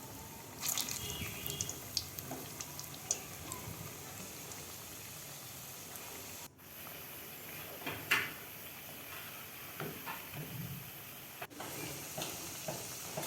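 Battered, semolina-coated egg pakoras frying in hot oil in a kadai: a steady sizzle with scattered pops and clicks, cutting out briefly twice.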